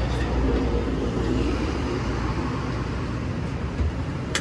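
Road traffic passing a roadside stall: a steady low rumble of engines and tyres, with a sharp click right at the end.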